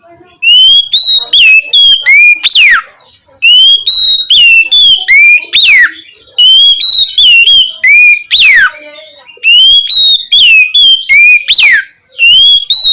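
Oriental magpie-robin (kacer) singing its loud, clear whistled 'ngeplong' song. Phrases of short rising and falling whistles each end in a long downward slur, repeating about every three seconds, four times.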